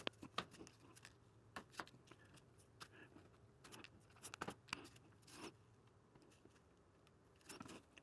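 Quiet, irregular small clicks and light scrapes of plastic rail joiners being worked by hand onto the ends of model railroad rail, with a short cluster of clicks about halfway through and another near the end.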